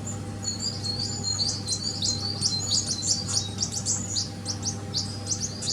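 Small birds chirping: a busy run of short, quick, high notes, one after another, from about half a second in, over a steady low hum.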